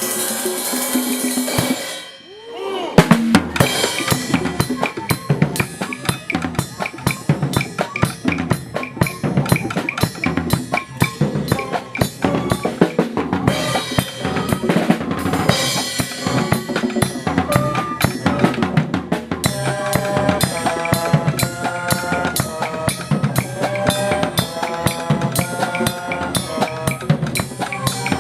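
Music driven by a drum kit, with snare and bass drum hits in a fast steady beat. It drops out briefly about two seconds in, then resumes, and held melody notes join over the beat in the second half.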